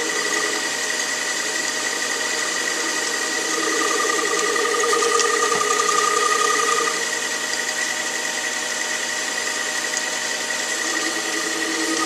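Small metal lathe running with a steady high whine while its tool takes a smooth turning cut along a bar held in the chuck. A lower tone comes in for a few seconds about a third of the way through and again near the end.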